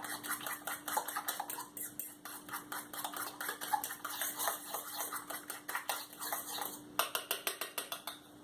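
A spoon clicking and scraping quickly against a mixing bowl, several strokes a second, as banana pancake batter is stirred. A faint steady hum runs underneath.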